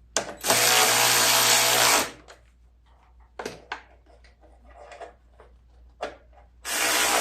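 A cordless power drill-driver runs twice, each time for about a second and a half, driving in 10 mm bolts. A few light clicks sound between the two runs.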